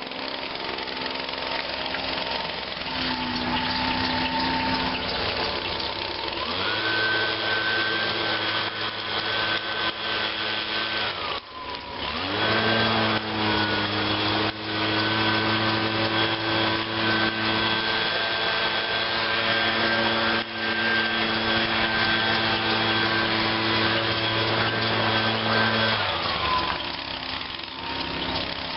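Echo PB-251 two-stroke handheld blower idling, then throttled up to full speed about six seconds in, dipping briefly near the middle, held at full throttle, and falling back to idle near the end.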